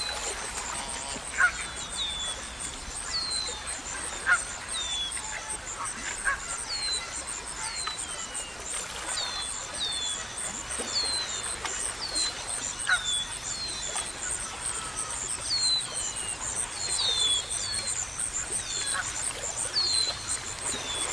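Birds chirping: many short, falling calls repeated every second or so, over a steady, high-pitched pulsing buzz.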